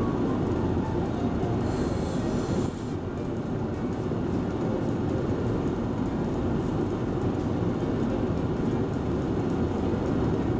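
Steady low rumble of a running vehicle, with a brief hiss about two seconds in.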